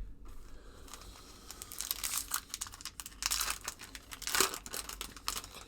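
Wrapper of a 1990-91 Skybox basketball card pack being torn open and crinkled in the hands: a run of dry crackling that starts about a second and a half in and goes on for roughly four seconds.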